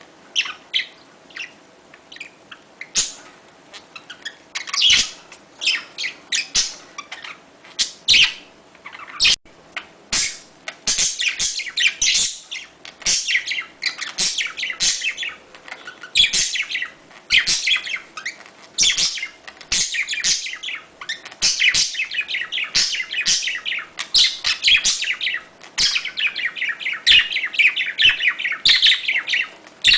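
Budgerigars chirping and chattering in a dense run of short, overlapping calls. The calls are sparser at first and become near-continuous after about ten seconds.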